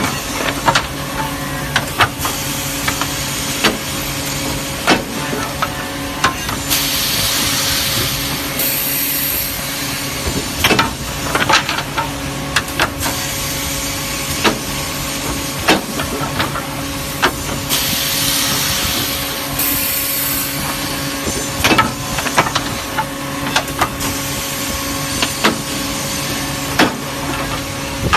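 Multi-head wood drilling machine running: a steady motor hum with many short knocks, and a hiss that comes in for a second or two about every ten seconds.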